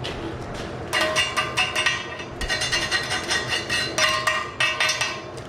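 Rapid metal-on-metal strikes on a steel core barrel as it is cleaned up, the barrel ringing at several pitches after each hit. The strikes come in bursts with two short pauses.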